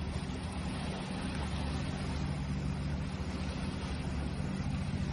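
Ocean waves: a steady, deep rumbling wash of surf with no distinct breaks or surges.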